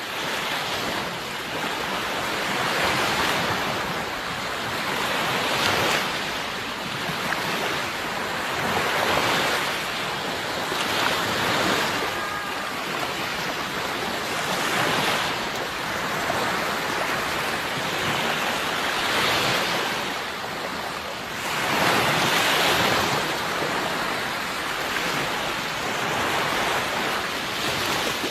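Sea waves washing onto a shore, a continuous surf noise that swells and falls back every two to three seconds.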